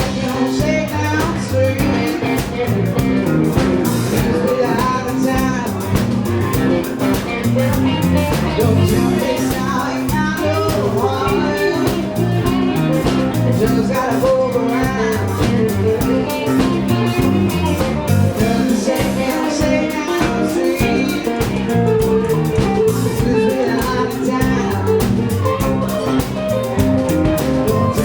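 A band playing a bluesy rock number with guitar, a singer's voice over it.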